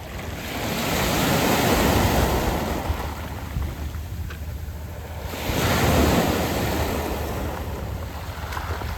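Sea waves washing onto a round-pebble beach, two surges about four seconds apart, each swelling and then drawing back. A steady low wind rumble on the microphone runs underneath.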